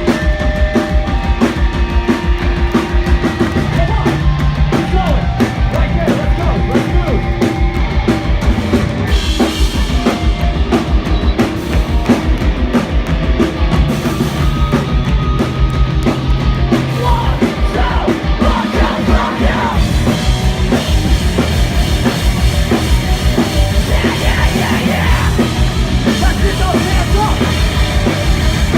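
Live punk/hardcore band playing loud and fast: pounding drum kit with heavy bass drum under distorted guitars and bass, recorded from the crowd.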